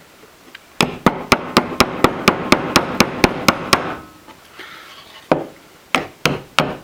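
Hammer tapping on wood: a quick even run of about a dozen sharp blows, roughly four a second, then after a short pause four more spaced blows.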